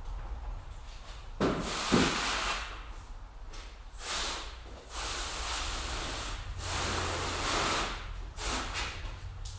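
Water spraying from a hose nozzle onto a car in several bursts of about a second each, with a knock near the start.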